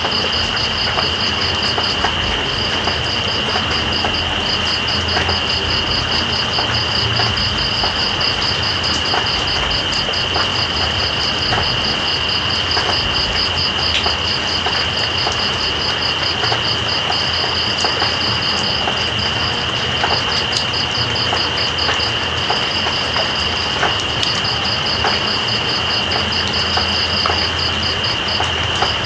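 Steady rain hissing and pattering, with night insects calling over it: one holds a continuous high drone, and another keeps up a fast, even pulsing trill that breaks off briefly a few times.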